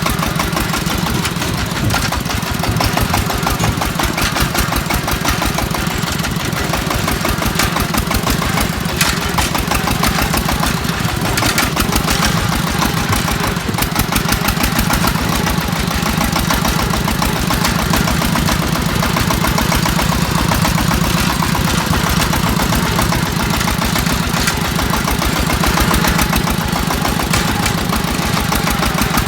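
Single-cylinder diesel engine of a four-wheel-drive công nông farm vehicle running steadily with a rapid, even chugging beat.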